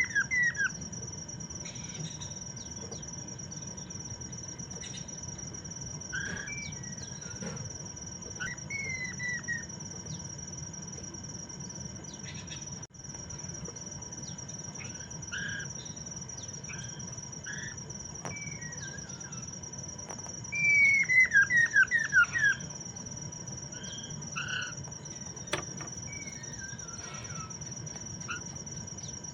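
Poksay mandarin, a laughingthrush, singing scattered phrases of downward-slurring whistled notes, loudest in a quick run of about half a dozen falling notes about two-thirds of the way through. A steady high-pitched insect drone runs behind it.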